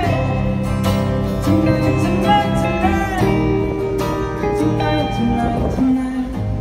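A rock band playing live, with strummed acoustic guitar over bass and drums and some vocal lines.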